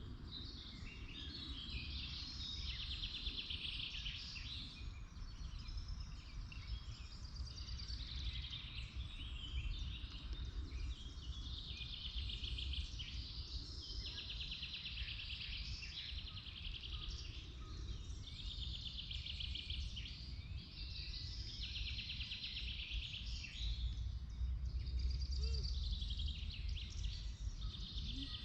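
Several songbirds singing, one repeating a short, fast trilled phrase every few seconds, over a low steady rumble.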